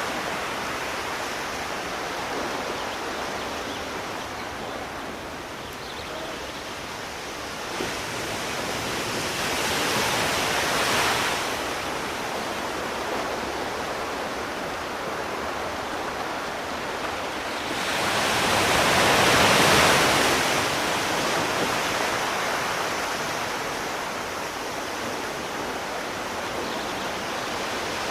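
Sea waves washing in over a steady rush of surf, with two swells, a smaller one about ten seconds in and a bigger one near twenty seconds.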